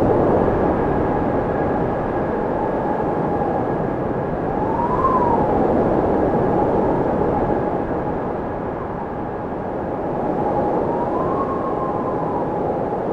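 Wind blowing steadily, with a whistling howl that rises and falls in pitch every few seconds as gusts swell and ease.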